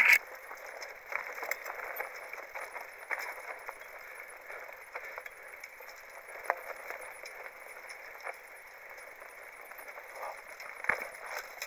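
Mountain bike rattling and clicking over a rough trail, with a steady hiss behind many small clatters, a sharp click right at the start and a few louder knocks near the end.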